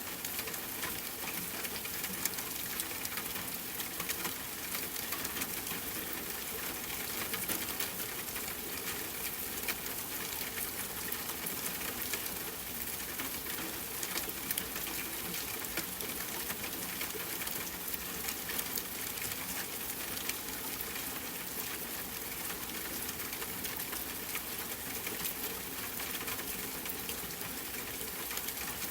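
Rain falling steadily on a tent, mixed with a campfire crackling: a constant hiss dotted with many small sharp ticks.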